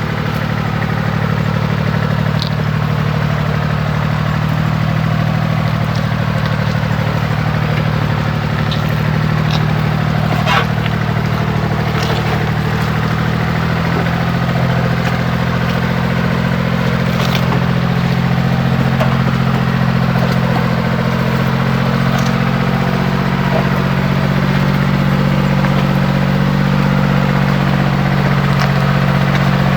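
An engine idling steadily, with a few light clicks or taps over it.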